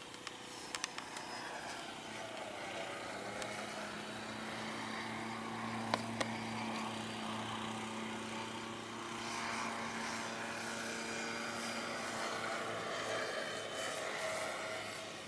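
Remote-control model airplane's motor and propeller droning in flight, growing louder toward the middle and easing off near the end, its pitch sweeping up and down as it passes. A few sharp clicks come about a second in and again midway.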